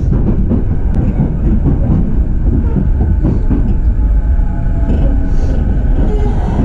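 Running noise heard inside an E233-series electric train car: a steady, loud low rumble of wheels on rail and running gear as the train travels.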